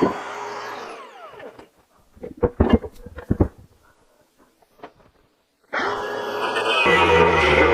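Angle grinder cutting steel brackets, switched off and winding down with a falling whine. A few sharp metal knocks follow, then the grinder starts again and cuts under load.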